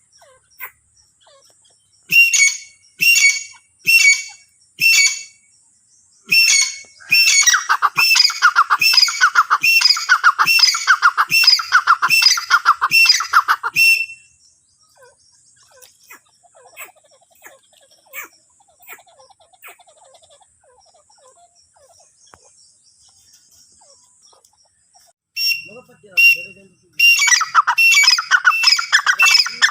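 Grey francolin calling. A few single loud notes come about a second apart, then a fast run of repeated notes lasts about seven seconds. After a quiet stretch of about ten seconds the calls start again and run into another fast series near the end.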